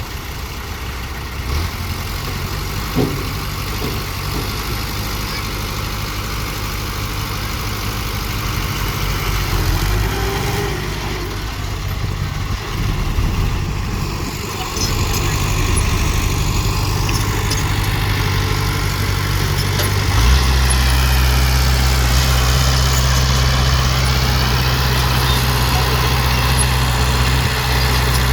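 Heavy dump truck's diesel engine running steadily at a low speed, getting louder about twenty seconds in.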